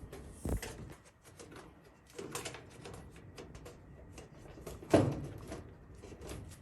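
Plastic cable ties being pulled tight around dryer wiring, giving runs of quick ratcheting clicks, with handling knocks against the dryer, the loudest a sharp knock about five seconds in.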